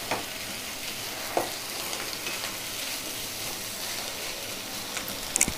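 Fish roe masala sizzling steadily as it is stir-fried over a high flame in a nonstick pan, with a spatula scraping through it and knocking lightly against the pan a few times.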